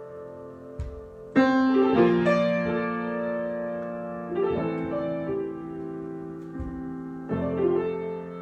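Solo piano improvisation: slow chords struck one after another, the loudest about a second and a half in, with others near the middle and near the end, each left ringing and fading.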